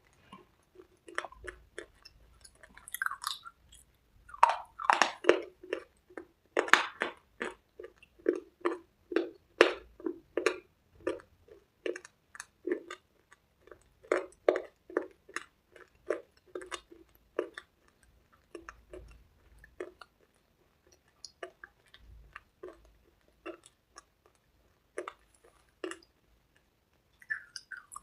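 Close-up chewing and crunching of hard cubes and red slate paste: many crisp crunches in quick, irregular succession, densest from about four to eleven seconds in and thinning out after about eighteen seconds.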